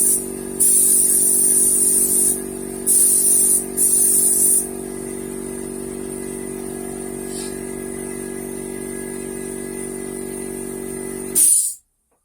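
Paint spray gun spraying car paint in several short bursts of high hiss, over a motor humming steadily. All sound cuts off suddenly near the end.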